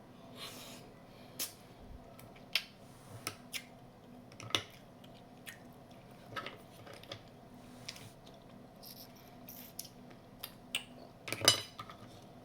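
Jonah crab claw shells clicking and cracking as they are handled and picked at while eating: scattered sharp clicks at uneven intervals, with the loudest crack a little before the end.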